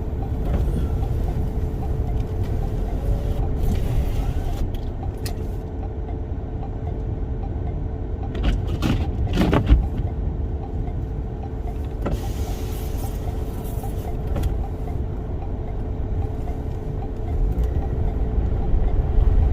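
Cabin noise of a Toyota Sienna minivan driving: a steady low rumble of road, engine and wind, with a faint steady hum. A few sharp clicks come about halfway through.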